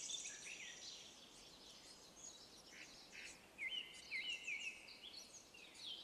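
Small birds chirping and singing in the woods, faint: a high trill fading out in the first second, then a run of short sweeping chirps about midway.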